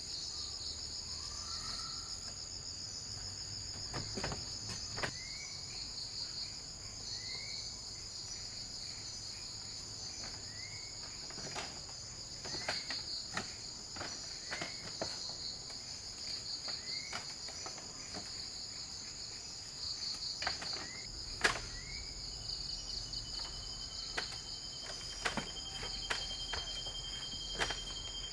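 Rainforest insect chorus: a steady, high, finely pulsing buzz of insects. Over it come short rising chirps repeated every couple of seconds, scattered clicks and knocks, and from about two-thirds of the way through a thin steady whistle-like tone.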